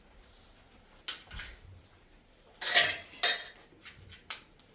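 Cutlery and dishes clinking and clattering: a couple of light clinks, then a louder clatter lasting nearly a second past the middle, and one more clink near the end.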